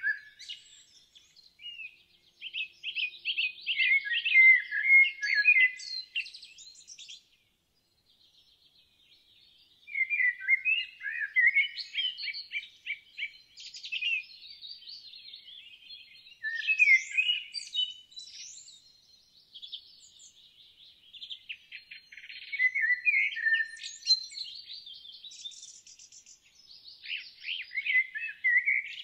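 Songbirds singing: rapid warbling and chirping phrases in bursts of a few seconds, with a brief pause about a third of the way through.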